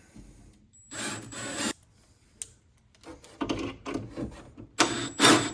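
Milwaukee drill fitted with a corner-reaching attachment head, drilling into an oak spacer block in three short bursts with a faint high whine. The hard oak makes the drilling slow going.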